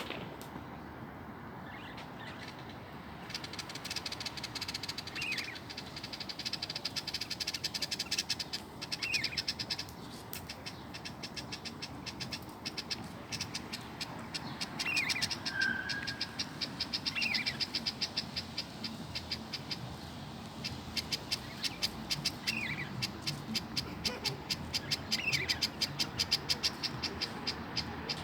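Birds chirping in a fast, continuous high chatter, with a short falling call repeated about every two seconds and one brief whistle near the middle.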